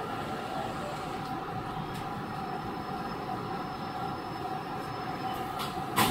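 Chiba New Town Railway 9100 series electric train with WN-drive motors, heard from inside the car while running between stations: a steady rolling and gear hum with a couple of fixed tones. A sharp knock comes right at the end, and the running noise then grows louder.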